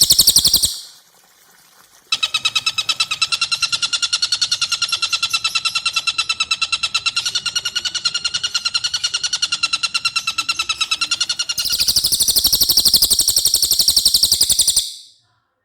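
Caged songbird singing a long, fast, even trill of rapidly repeated notes. It is loud at the start, breaks off for about a second, returns softer for some ten seconds, swells loud again, then stops shortly before the end.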